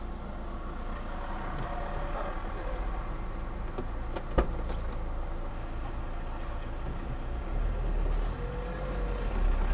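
Car engine idling, heard from inside the cabin as a steady low rumble. A single sharp click comes about four and a half seconds in, and the rumble grows louder in the last two seconds.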